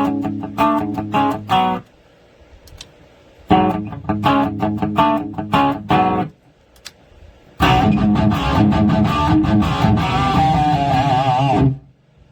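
Electric guitar played through a Sonicake multi-effects pedal: two short runs of picked notes, then a longer held phrase with a wavering vibrato near its end, cut off suddenly.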